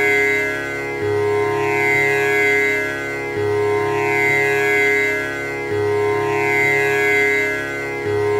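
Tanpura drone: its strings are plucked in an unbroken repeating cycle that starts over about every two and a half seconds, each round opening on a low string, with the buzzing, shimmering overtones of the instrument's jawari bridge.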